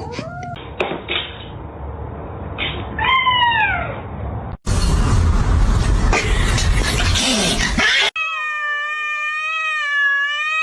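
Domestic cat meowing: a short falling meow about three seconds in, then, after a loud rushing noise in the middle, one long drawn-out yowl near the end.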